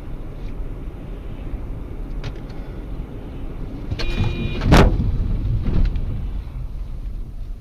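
Steady road and engine rumble heard from inside a moving car. About four seconds in, a brief steady tone sounds, then a loud sharp crash impact, followed by a smaller knock about a second later: a car collision.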